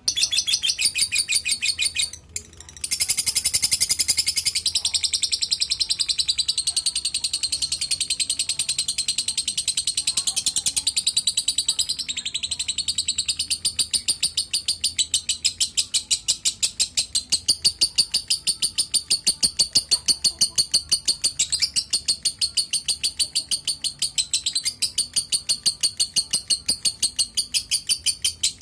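Lovebird giving a long, unbroken run of rapid, high-pitched chirps, with a short pause about two seconds in.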